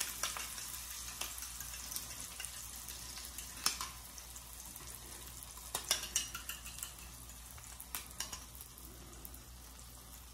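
Omelet mixture frying in olive oil in a nonstick skillet as beaten eggs are poured over the onions, bell pepper and ham: a steady sizzle that slowly dies down, with a few scattered sharp taps.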